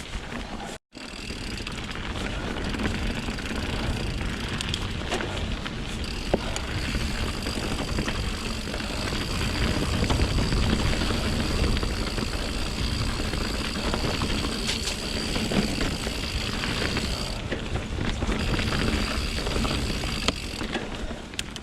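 A mountain bike on Pirelli Scorpion tyres rolling over rocky, wet singletrack: steady tyre and wind rumble with small rattles and knocks from the bike. A high steady buzz runs through much of it. The sound cuts out completely for a moment about a second in.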